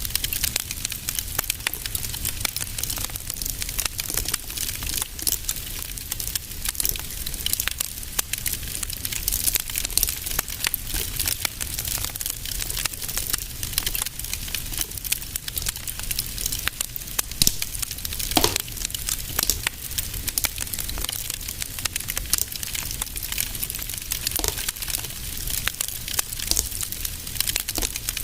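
Fire in a fireplace crackling, with dense irregular pops and snaps over a low steady rumble, and a short rising whistle about two-thirds of the way through.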